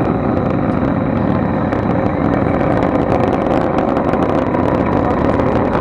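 Falcon 9 rocket's nine Merlin first-stage engines heard from far off after liftoff: a loud, steady rumble full of rapid crackling.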